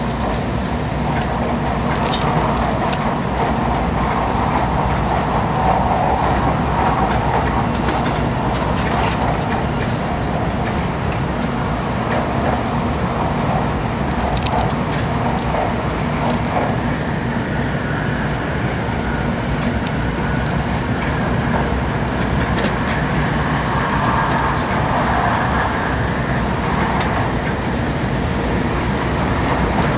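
Steady running noise of a Tokaido Shinkansen Nozomi train heard from inside the passenger car: an even rumble and rush from wheels, rails and air, with a few faint clicks.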